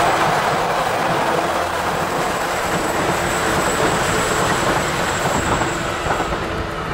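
E3-series Shinkansen train running past on the line, a steady rush of wheel and rail noise with a thin high whine. The sound eases slowly toward the end as it goes by.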